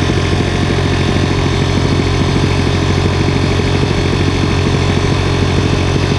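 Dirt bike engine running at a steady, even pitch.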